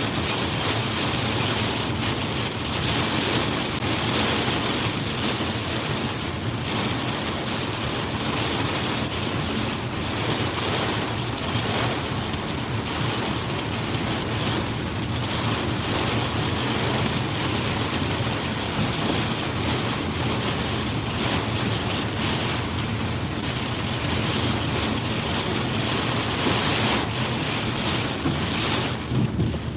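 Steady rushing noise of monsoon wind and wind-driven heavy rain, with wind buffeting the microphone.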